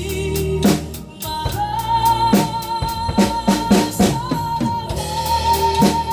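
Drum kit played along with a backing song: regular cymbal ticks and kick and snare strokes over a sustained melody line.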